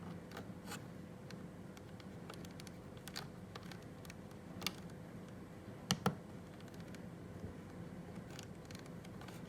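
Computer keyboard being typed on in short, irregular clicks, with two sharper clicks about six seconds in, as a channel name is typed in. A faint steady hum lies underneath.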